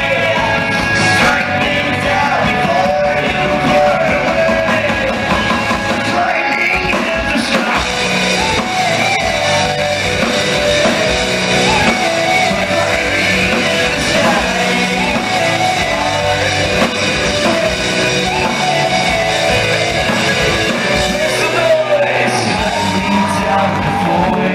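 Live hard rock band playing loudly, with a singer's sung vocal over electric guitars, bass and drums.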